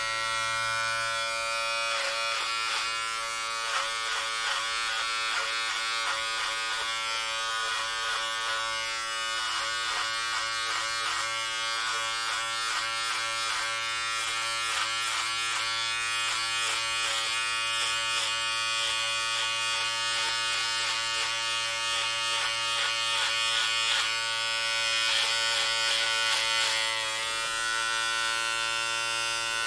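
Electric hair clippers running with a steady buzz while cutting hair, with many irregular short rasps as the blades pass through the hair.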